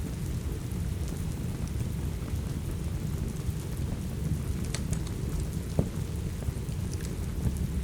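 Steady rain with a low rumble beneath it. Scattered sharp crackles and pops from a wood fire sound over it, the most prominent about five and six seconds in.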